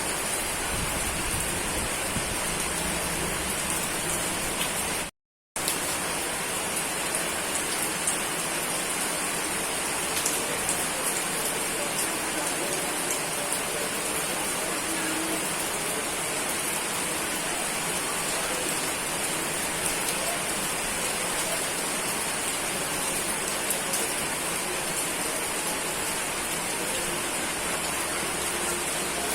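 Steady heavy rain falling, with scattered drops ticking through the hiss. About five seconds in it cuts out for a split second.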